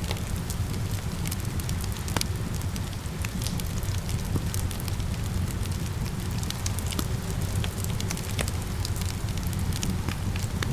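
Wood fire in a fireplace crackling, with irregular sharp pops over a steady low rumble, and rain falling steadily alongside.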